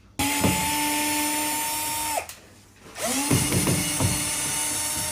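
Cordless drill-driver running in two steady runs of about two seconds each, backing out screws to open a washing machine's lid. The second run has some knocking and rattling under it.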